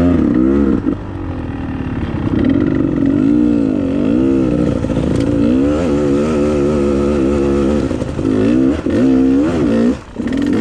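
Dirt bike engine revving up and down as the throttle is worked on a trail, its pitch rising and falling every second or so, with a short let-off near the end.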